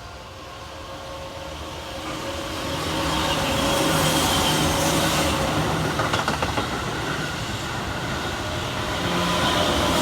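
Keihan Main Line electric train running past, growing louder over the first few seconds and then running steadily. A short run of clicks comes a little after the middle, and the noise swells again near the end.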